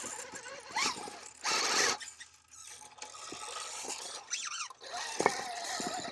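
Axial SCX6 RC crawler's electric drivetrain whining in rising and falling bursts as the throttle is worked, with a half-second burst of tyres scrabbling on rock about a second and a half in and scattered clicks.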